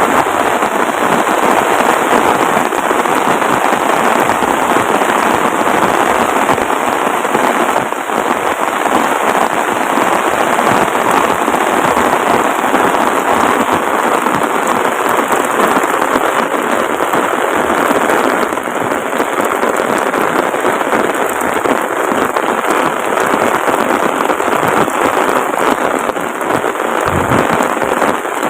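Heavy rain pouring down steadily, a dense, even hiss of drops striking surfaces.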